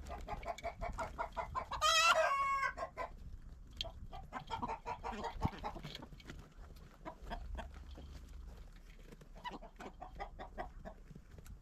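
Chickens clucking in quick runs, with one loud drawn-out call about two seconds in.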